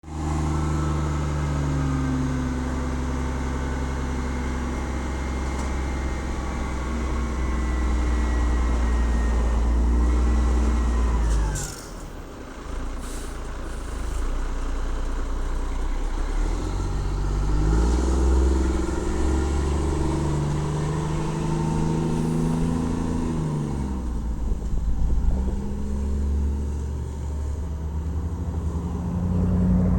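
Diesel engine of a 1999 Peterbilt 320 garbage truck running at raised revs with a high hydraulic whine while the packer works, both dropping away suddenly about a third of the way in. Short air hisses follow, then the engine revs up and drops back several times as the truck pulls away through its gears.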